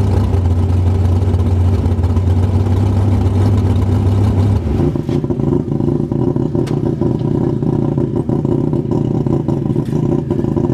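Drag car's engine idling with a steady deep drone; a little under halfway through, the deep drone drops away and a higher, rougher engine sound carries on.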